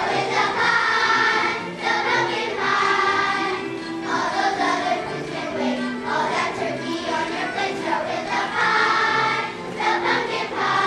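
Children's choir singing a song together, with instrumental accompaniment.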